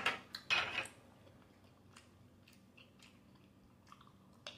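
A person chewing food close to the microphone: wet, noisy chews loudest in the first second, then softer mouth clicks and smacks, with a sharp click near the end.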